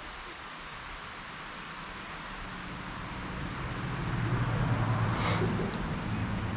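A low engine hum that grows louder from about two seconds in and then holds, over a steady hiss.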